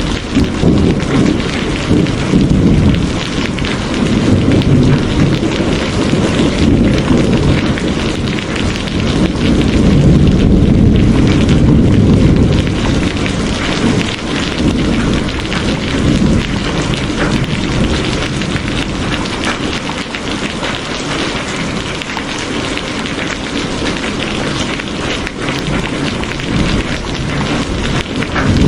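Loud steady rain, a continuous hiss, over a low rumble that swells and eases a few times.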